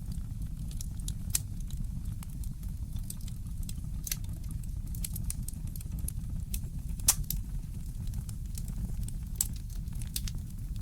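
Wood fire in a fireplace crackling: irregular sharp pops and snaps, the loudest about seven seconds in, over a steady low rumble.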